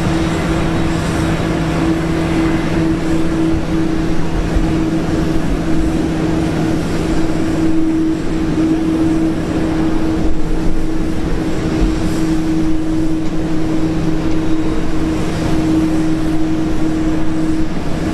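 Aircraft engines running steadily: a constant low hum over a loud, even rushing noise.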